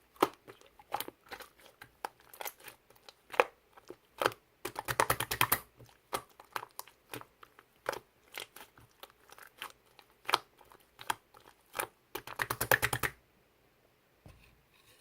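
Close, irregular sharp clicks and taps, with two bursts of rapid clicking, one about five seconds in and one near the end, then a short pause.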